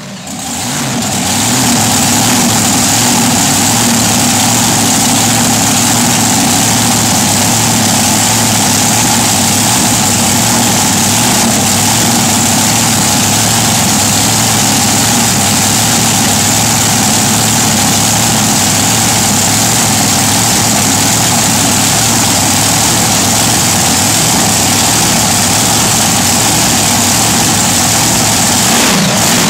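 Monster truck engine idling steadily, running smoothly with an even, unchanging note.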